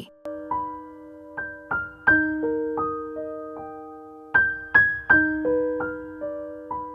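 Gentle background piano music: single notes and soft chords struck slowly, each left to ring and fade.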